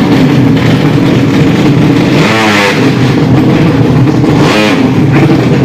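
Drag-bike motorcycle engines revving hard, with two quick sweeps rising and falling in pitch, about two and four and a half seconds in, over a steady engine drone.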